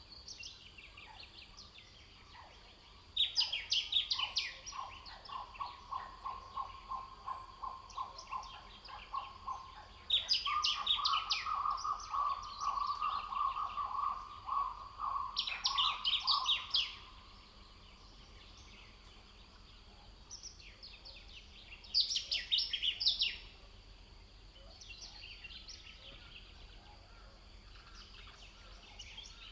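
Wild birds singing: short bursts of rapid high notes repeated every few seconds, with a lower, fast, even trill running for several seconds through the middle.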